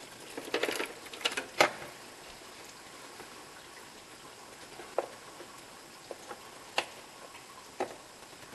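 Hand tools clicking and knocking on metal engine parts as the water pump is being removed, a quick cluster in the first two seconds, then a few single clicks.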